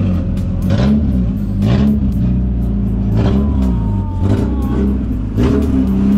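Car engine idling and revved in about five short blips, each rising and falling again, roughly one a second.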